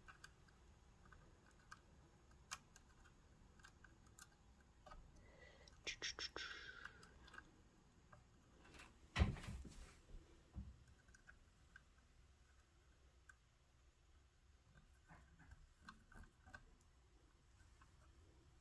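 Faint small clicks and scrapes of a screwdriver working a small screw into a Kenmore sewing machine's metal cam-gear assembly, with a sharper knock about nine seconds in. The screw doesn't feel like it's threading right.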